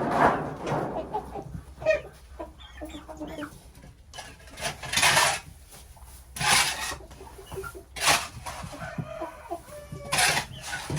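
Chickens clucking, broken by about five short bursts of rustling noise, the loudest at the very start.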